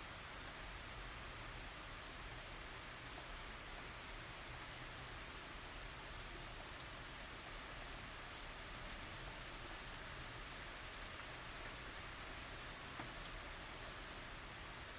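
Steady tropical rain falling, an even hiss with many fine, close drop ticks on surfaces.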